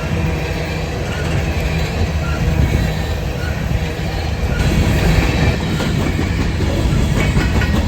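Freight train rolling past close by: a heavy, steady low rumble from the cars, with the wheels clicking over the rail joints toward the end.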